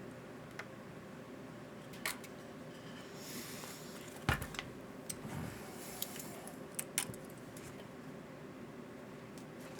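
Small metal tools clinking and clattering as they are rummaged through and handled, in scattered clicks and knocks with a louder clack about four seconds in.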